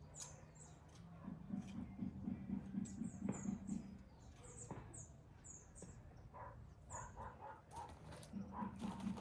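Small birds chirping in short, high, downward-sliding notes, over a faint low pulsing sound that runs for a few seconds and returns near the end.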